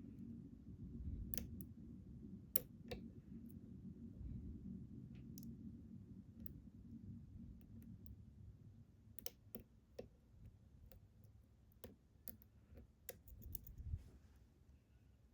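Small, sharp metallic clicks from a hook pick and tension wrench working the pins inside a Ruko 600 lock. They come irregularly and bunch closer together near the end, over a faint low rumble of handling noise.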